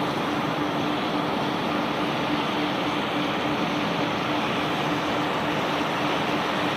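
Conveyor machinery carrying rock, running steadily: an even, dense rushing noise with a constant hum underneath.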